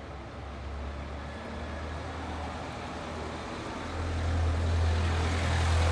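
Wind buffeting the microphone as a deep, steady rumble, growing louder about four seconds in with a gust.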